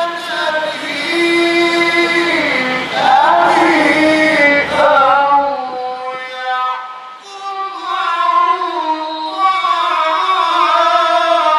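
A man reciting the Quran in the melodic mujawwad style, drawing out long held notes with sliding ornaments over several phrases.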